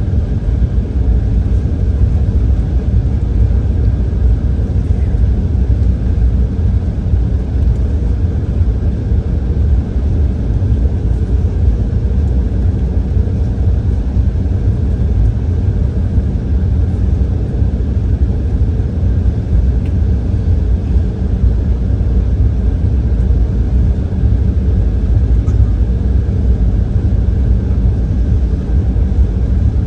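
Embraer E170 jet airliner with its GE CF34-8E turbofans running, heard as a steady, loud low rumble with a faint constant hum, and no change in pitch or level.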